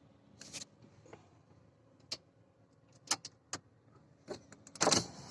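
Scattered clicks, knocks and rustles of someone handling things inside a truck cab, then a louder rush of noise about five seconds in.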